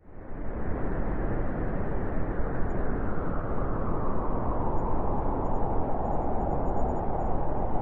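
Strong blizzard wind rushing steadily with a deep rumble. It fades in quickly at the start.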